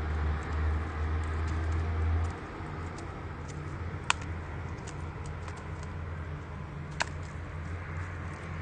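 Wood fire crackling in a Uniflame Nature Stove Large campfire stove, with many small irregular crackles and two sharper pops, one about four seconds in and one about seven seconds in. A low rumble under it cuts off suddenly a little over two seconds in.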